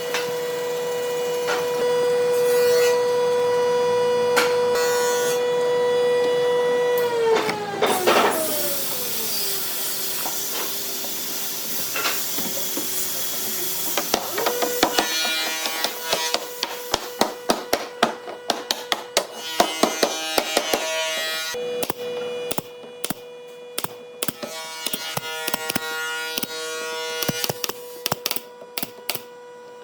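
A woodworking power tool's motor running with a steady whine. It is switched off about seven seconds in and winds down in pitch. It starts again about halfway through, with a rapid clatter of sharp knocks over the running motor.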